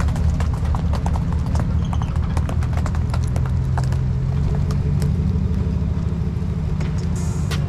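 A vehicle engine running steadily, with many short clicks and taps over it.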